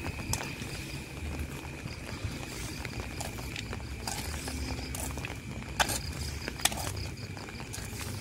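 Rain falling with scattered drips and the taps of footsteps on wet ground, with a thin steady high tone running underneath. Two sharper knocks stand out a little past the middle.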